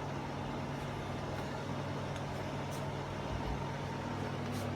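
Steady low hum with an even background noise, and a few faint light clicks near the end.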